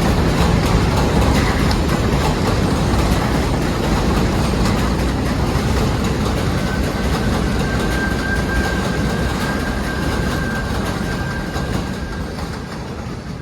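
Subway train running on the tracks with a loud, steady rumble and rattle. About halfway through, a thin, steady high whine joins in for several seconds. Near the end the sound fades.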